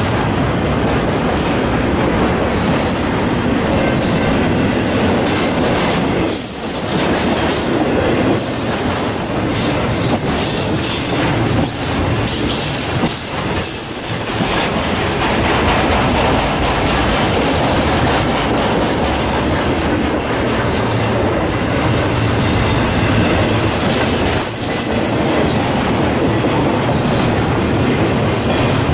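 Intermodal freight train's flatcars, loaded with semi trailers, rolling past: a steady loud rumble and clatter of wheels on the rails. High-pitched wheel squeal rises several times.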